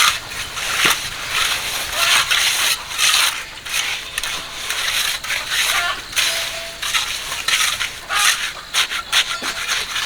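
Repeated gritty scraping strokes of a tool working through concrete mix, several a second and irregular.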